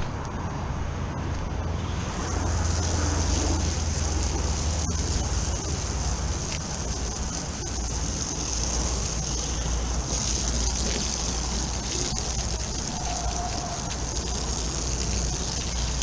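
Water from a hose spraying and running through a dirty condensing unit during a coil cleaning, a steady rushing hiss over a constant low hum.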